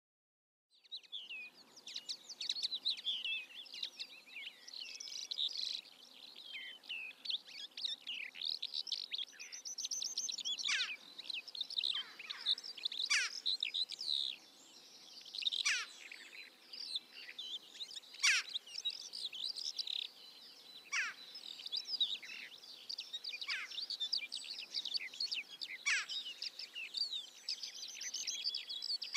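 Dense chorus of small birds chirping and twittering in high notes, with sharp downward-sweeping calls every few seconds and a fast trill about ten seconds in.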